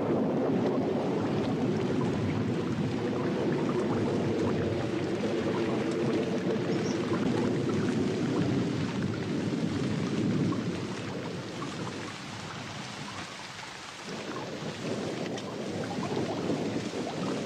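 Thunderstorm: heavy rain falling with a steady rumble of thunder, easing for a few seconds near the middle and then building again.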